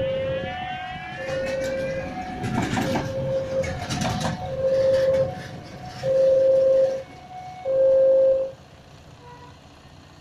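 A two-tone railway warning signal repeats about once a second while a train passes with a burst of wheel clatter in the middle. The last two tones, near the end, are louder and longer, then the sound stops.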